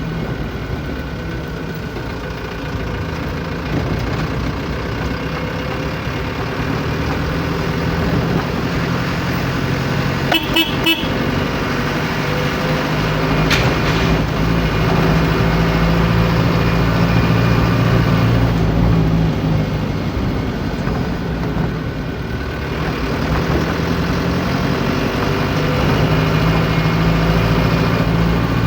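A vehicle engine running steadily, with a quick burst of three short horn toots about ten seconds in and a single sharp click a few seconds later.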